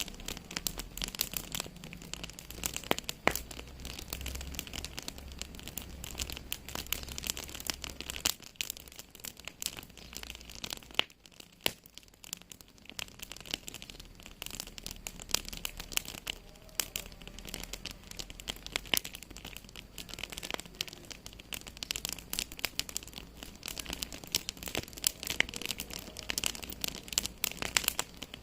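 Wood fire in a fireplace crackling, a dense run of small pops and snaps over a steady hiss; the popping thins out briefly about halfway through.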